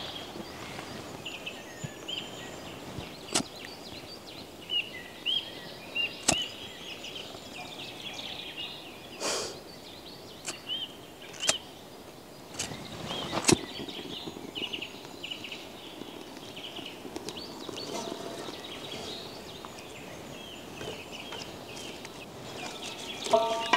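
Small birds chirping over and over, with a few sharp knocks or snaps now and then.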